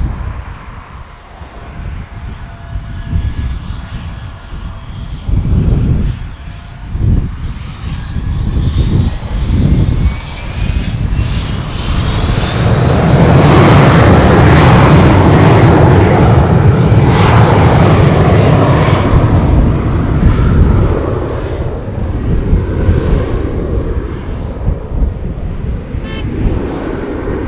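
Aircraft engines with a rising whine that levels off into a loud, steady rumble for several seconds in the middle, then eases away.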